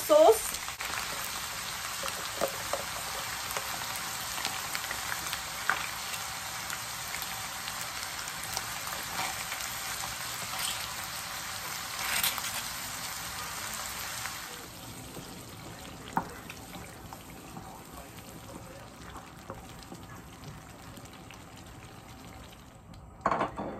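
Sliced hot dogs, ground meat and diced vegetables sizzling in a frying pan, with a few light clicks and knocks. The sizzle turns quieter a little past halfway through, once the tomato spaghetti sauce is on the food.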